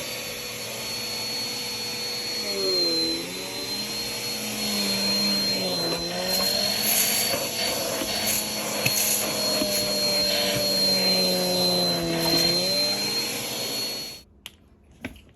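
Vacuum cleaner running with a steady high whine, its motor pitch dipping and recovering several times. It cuts off suddenly near the end, followed by a few clicks.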